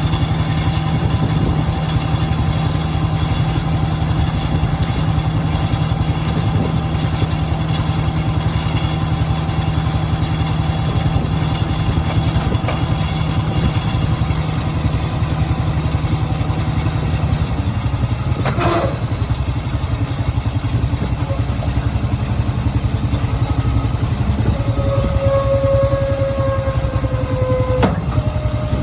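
Tractor engine running steadily under load, with a New Holland 630 small square baler working behind it. The engine note shifts a little over halfway through, followed by a brief sharp sound, and a thin whine comes in near the end.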